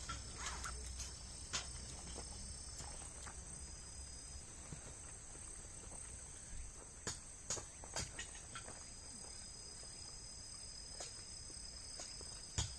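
Faint, steady high-pitched insect chirring, with scattered sharp clicks and knocks.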